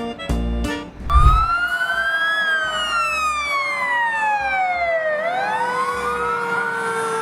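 A few music notes, then about a second in a wailing siren starts: it rises, falls slowly over about three seconds, and rises again near the end, over a lower steady tone.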